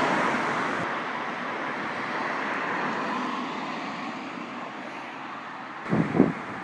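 A passing train's running noise, loud from the start and slowly fading away. Gusts of wind buffet the microphone near the end.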